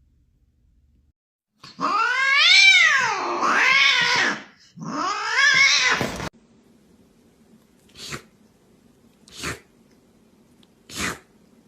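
Domestic cat yowling: two long, drawn-out cries that rise and fall in pitch, followed by three short, sharp puffs about a second and a half apart.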